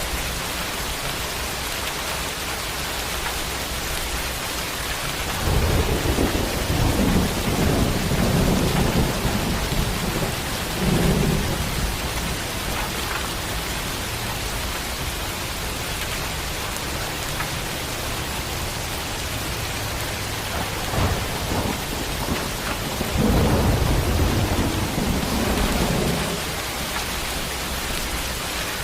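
Steady rain hissing, with thunder rumbling twice: a long rolling rumble starting about five seconds in, and another a few seconds before the end.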